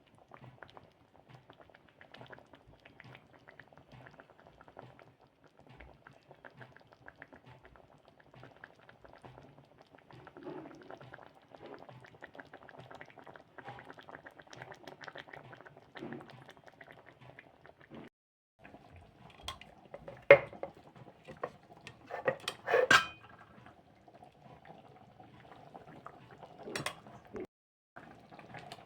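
Food cooking in a pan with a steady fine crackle and bubbling, and a few sharp metal clanks of a utensil against the pan about two-thirds of the way through.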